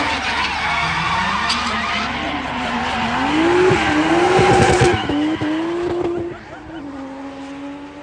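Car drifting, its tyres screeching while the engine revs up and down, loudest around four to five seconds in. A little after six seconds the screech stops and the engine settles to a quieter, steady note.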